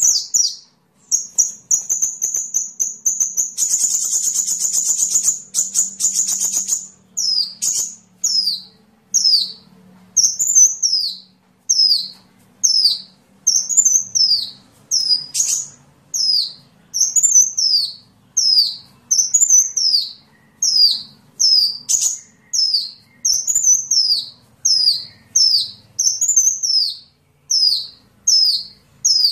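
Sunbird (the 'kolibri' of Indonesian bird keepers) singing: a high held note, then a fast rattling trill, then a long run of sharp, high, downward-sliding chirps repeated about once a second.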